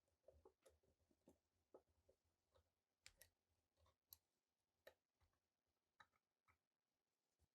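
Very faint, irregular clicks and light taps, about a dozen over several seconds, as small metal pistol parts and tools are handled.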